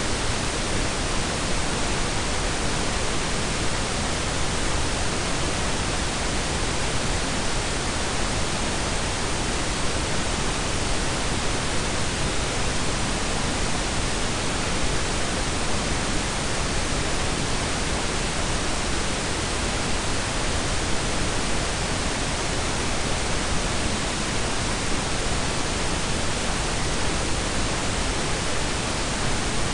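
A steady blend of pink and brown noise: an even, unchanging hiss with extra weight in the low end, cut off above about 10 kHz.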